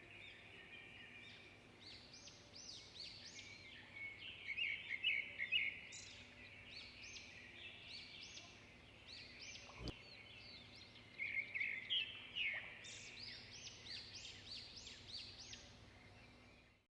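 Small birds chirping in quick clusters of short, high calls over a faint steady background, with a single sharp click about ten seconds in.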